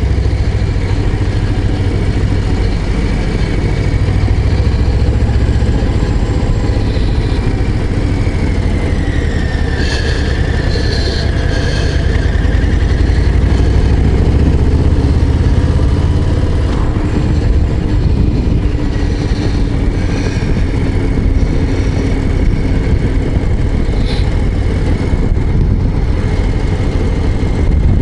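Harley-Davidson Low Rider ST's Milwaukee-Eight 117 V-twin engine running under way, a steady low rumble.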